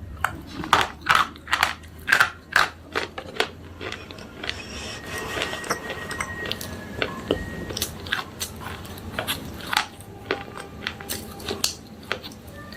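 Slate pencils being bitten and chewed: a quick run of sharp, loud crunches for the first few seconds, then quieter, denser grinding and crackling as the pieces are chewed, with more crunching bites in the second half.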